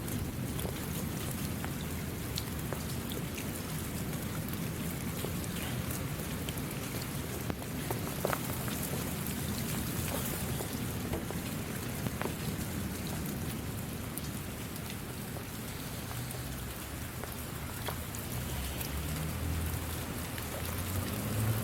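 Steady rain falling, with scattered individual drops tapping and a low rumble underneath that swells near the end.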